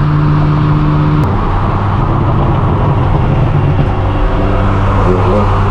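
Straight-piped BMW M4 F82's twin-turbo straight-six running under way, loud and steady. Its exhaust note drops in pitch about a second in, then holds, and rises slightly near the end.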